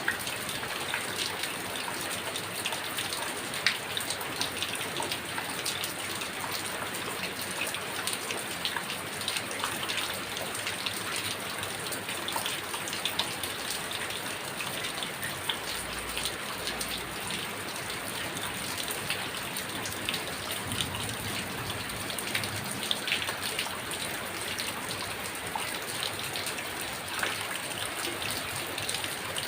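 Heavy rain falling steadily, with many sharp individual drop hits standing out from the constant hiss of the downpour.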